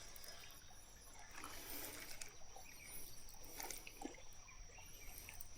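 Faint outdoor ambience: a steady high insect buzz, with a few faint high bird chirps in the first half.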